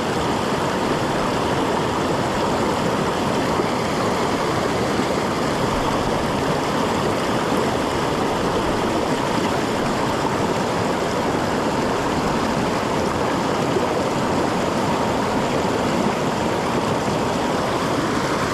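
Steady rush of fast, bubbling mountain creek water.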